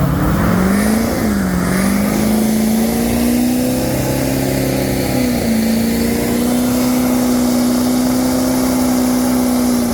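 A vehicle engine revs up and is held at high revs during a burnout on the burnout pad. The pitch rises, dips briefly twice, then holds steady.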